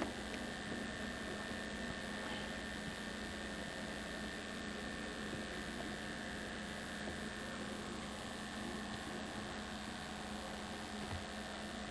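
Steady electrical hum under a faint hiss, with a low drone and a thin higher tone held level; nothing else stands out. This is the recording's own noise from a 1990s camcorder tape.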